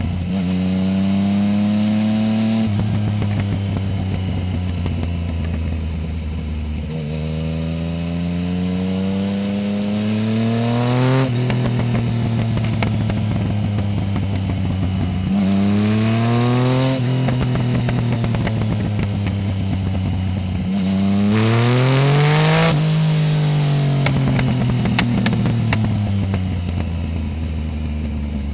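Yamaha Tracer 900 GT's 847 cc three-cylinder engine through a full Roads Italia exhaust with no dB-killer, pulling hard several times with the pitch rising and then dropping back as the rider shifts or rolls off the throttle. The last pull, about three quarters of the way through, is the sharpest. After it the engine winds down steadily as the bike slows.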